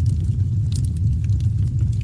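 Wood fire crackling: scattered sharp snaps and pops, a few close together about three quarters of a second in, over a steady low rumble.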